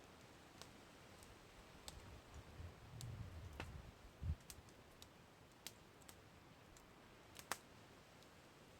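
Campfire crackling faintly: scattered, irregular sharp pops and snaps of burning wood, with a soft low thump about halfway and the loudest snap near the end.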